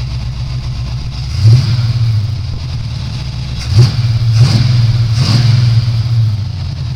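Chevrolet 350 small-block V8 idling steadily, then revved up several times, about a second and a half in and three more times in the middle, before settling back to idle.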